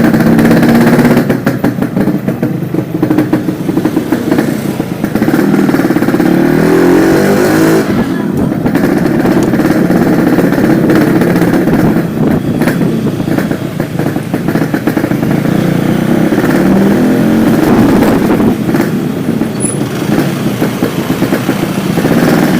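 Yamaha RX-King two-stroke single-cylinder engine running through its stock exhaust silencer fitted with only the main filter screen, revved up and let back down a few times, with pitch rises about six seconds in and again near eighteen seconds.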